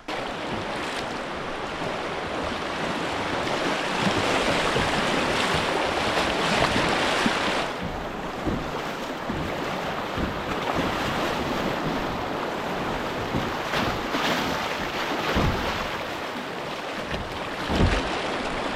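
Fast river water rushing around a kayak, a steady loud wash, with wind buffeting the microphone and a few dull thumps near the end.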